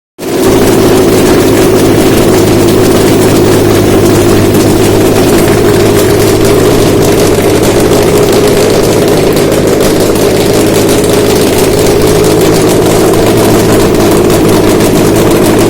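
Subaru EJ253 2.5-litre flat-four engine running on a test stand, idling steadily.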